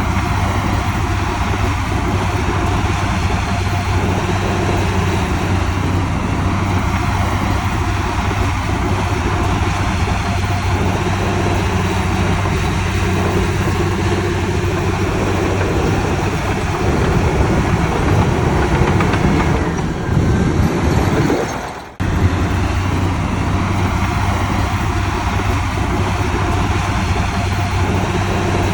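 Heavy diesel earthmoving machinery running steadily, its engine working harder for a few seconds past the middle, with a sudden brief cut-out a little later.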